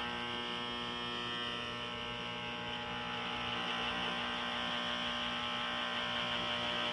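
Harman XXV pellet stove's auger running with a steady, unbroken hum made of many even tones, strongest in a high band. It is not a squeal; the owner takes it for something wrong with the auger.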